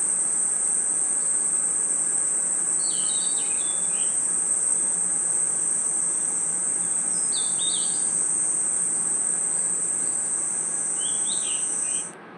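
Crickets trilling in one steady, high-pitched band that cuts off abruptly near the end, with short clusters of lower chirps about every four seconds.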